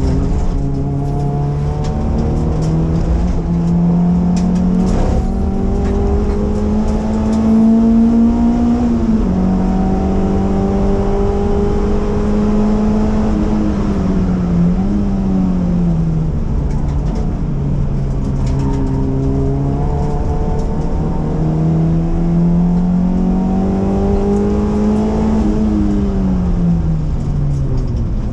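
1989 Honda CRX ED9's 1.6-litre D16A9 four-cylinder engine, fitted with Supersprint headers and a Togheishop Piper exhaust, heard from inside the car as it is driven hard on track. The engine note climbs steadily in pitch under throttle and falls sharply several times as it is driven through the gears.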